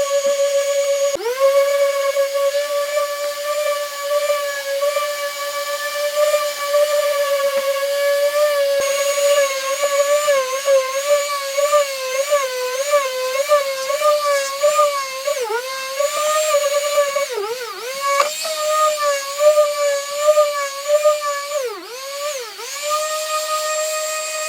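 A handheld power tool's motor whining at high speed, its pitch wavering and dipping sharply several times in the second half as it is pressed into the work.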